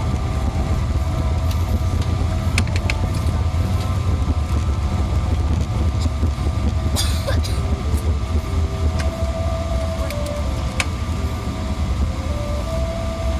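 Cabin noise of a Boeing 777-300ER on the ground just after landing: a steady low rumble, with a few light ticks and a short hiss about seven seconds in.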